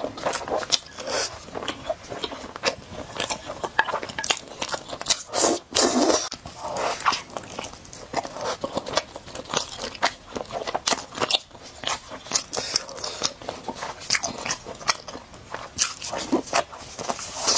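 Close-miked eating of spicy noodles and egg: steady chewing and biting with many irregular wet clicks and crunches, and one louder burst about six seconds in.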